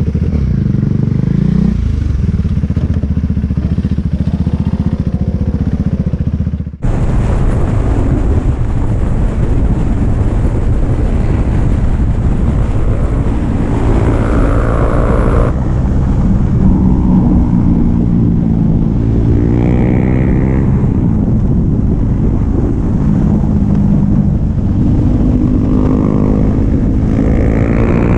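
Motorcycle engine running at speed, its pitch rising and falling as it revs through the gears, over steady wind rush on the microphone. The sound changes abruptly about seven seconds in.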